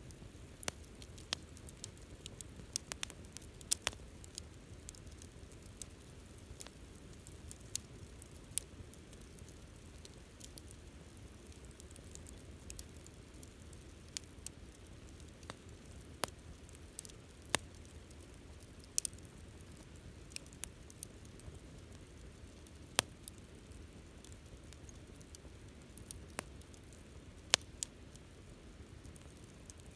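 Wood campfire crackling: irregular sharp pops and snaps scattered over a low, steady rush of burning.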